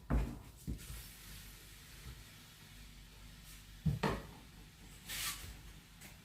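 Dull knocks of a wooden spoon against a pot while sadza is stirred and worked, a few near the start and a pair about four seconds in, with a short hiss a little after five seconds.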